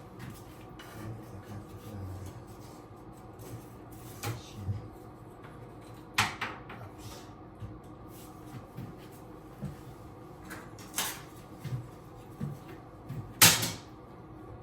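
Scattered knocks and clunks of hands and tools working on a bathroom vanity cabinet. A few sharper ones come about six and eleven seconds in, and the loudest one near the end.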